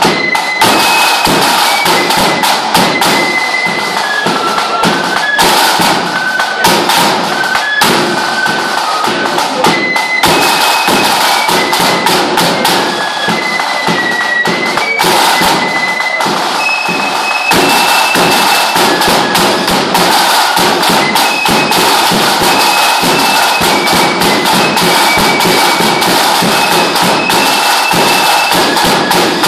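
Lambeg drum beaten in a fast, unbroken rattle of cane strokes, with a fife playing a tune above it.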